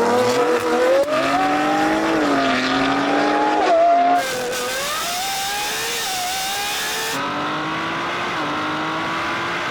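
Lamborghini Revuelto's 6.5-litre naturally aspirated V12 accelerating hard. Its pitch climbs, then drops at two upshifts, with a rushing hiss for a few seconds in the middle.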